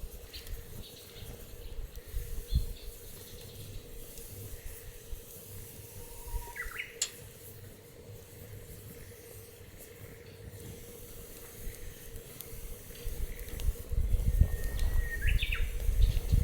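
Wood fire crackling in a steel fire pit, with scattered sharp pops and a faint hiss. Two short whistling chirps come through, and a low rumbling swells near the end.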